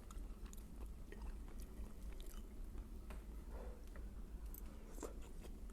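A person chewing a mouthful of slow-simmered meat stew, with faint wet mouth clicks and smacks.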